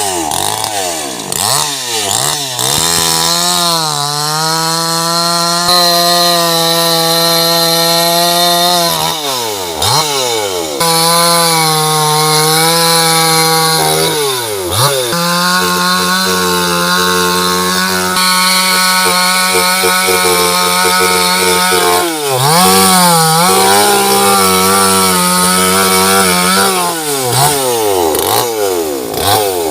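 Chainsaw revved up and held at full speed through four long stretches, cutting into a tree's wood, with the engine pitch dropping and climbing again between cuts.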